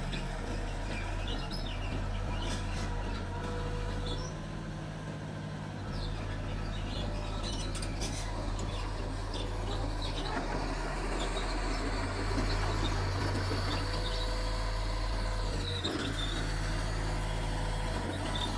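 Mitsubishi bulldozer's diesel engine running steadily, easing off briefly about four seconds in, with birds chirping now and then.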